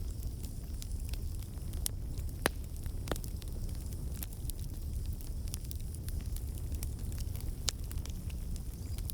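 Campfire burning: a steady low rumble of flames with irregular sharp crackles and pops of burning wood, the loudest pops at about two and a half seconds and near the end.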